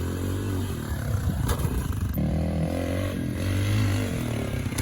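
Pit bike engine running under throttle as the rider heads for the jump; its note rises about two seconds in.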